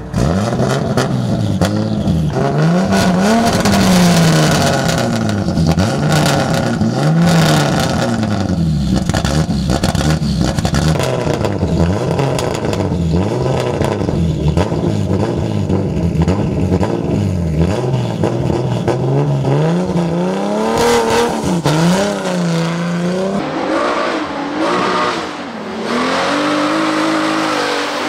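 BMW E30 race car's engine being revved at the start line, its pitch rising and falling over and over, then held at higher revs near the end.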